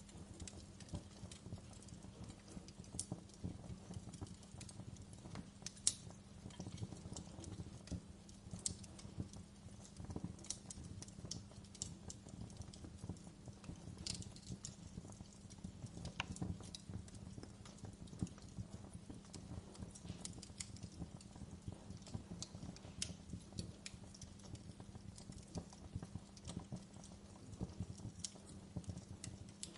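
Fire crackling in a fireplace: irregular small pops and snaps, several a second, over a low steady hum.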